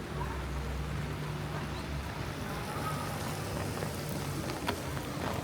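Steady rain hiss with a vehicle engine running, its low hum strongest for the first two seconds and then fading back; a few sharp drip-like ticks near the end.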